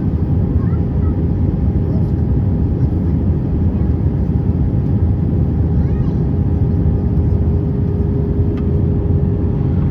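Steady cabin noise of an Airbus A320 in flight: a dense low rush of engine and airflow noise with a constant hum.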